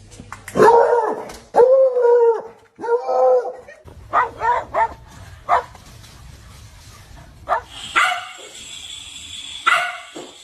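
A dog giving three drawn-out cries that rise and fall in pitch, then a series of short, sharp barks.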